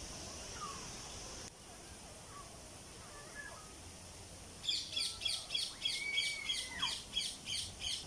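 A bird calling in a fast run of short, high repeated notes, about three or four a second, starting about five seconds in, with a brief held whistle-like note beneath them partway through.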